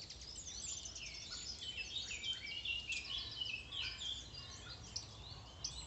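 Small birds chirping and twittering, faint, many short high chirps overlapping without a pause.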